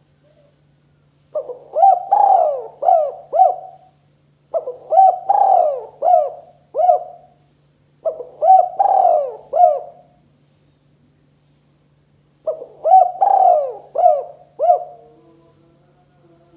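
Spotted dove (tekukur) cooing, in the call style bird-keepers name 'kuk 2': four call phrases a few seconds apart, each a quick run of several notes. A steady low hum runs under it.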